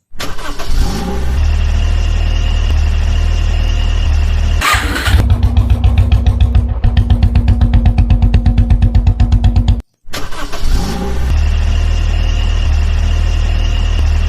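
Tractor engine starting and then running with a steady low rumble, with a faster, pulsing stretch about five to nine seconds in. It cuts out just before ten seconds and starts up again.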